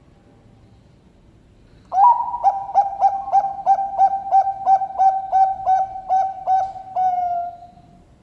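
Zebra dove (Bangkok-type perkutut) cooing: an opening note, then a quick run of about fourteen short coos at roughly three a second, ending on one drawn-out, slightly falling note.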